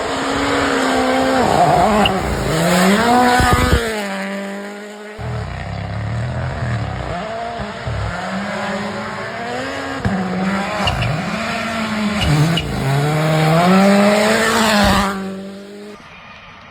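Rally car engines revving hard, the pitch climbing and dropping again and again with gear changes and lifts off the throttle. The sound breaks off abruptly about four seconds in, then carries on. It falls away near the end.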